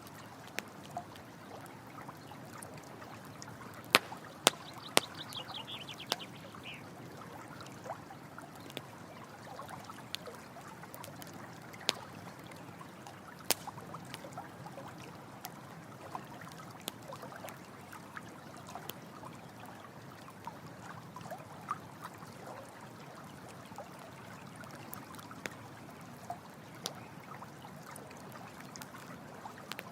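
Steady rush of running stream water, with a campfire crackling in scattered sharp pops, a few of them loud. A brief high chirping call about five seconds in.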